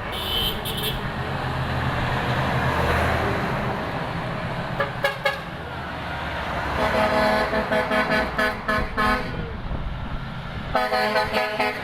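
Convoy trucks passing and sounding their horns. A short toot comes at the start, then the rumble of engines and tyres, a long horn blast about seven seconds in lasting a couple of seconds, and another horn starting near the end.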